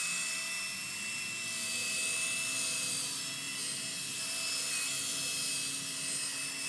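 Power drill spinning an 800-grit sanding pad against a plastic headlight lens, its motor giving a steady high whine, wet-sanding the yellowed, oxidised lens with soapy water.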